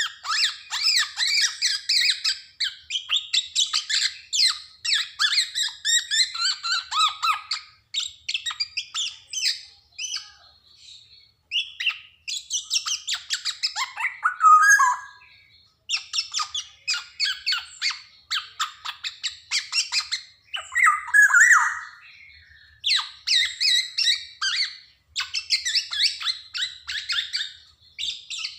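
Black-naped oriole (Javan kepodang) calling in rapid runs of short notes broken by brief pauses. A loud note falling in pitch comes about halfway through, and another about three-quarters of the way.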